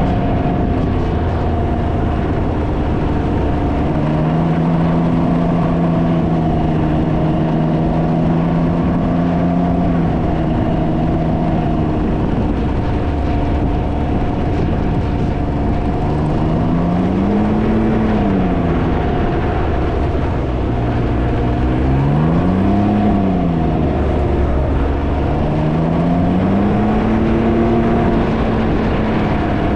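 Can-Am Ryker three-wheeled motorcycle riding, its engine running steadily, then rising and falling in pitch three times in the second half as the throttle is opened and closed. Heavy wind noise on the microphone runs under it.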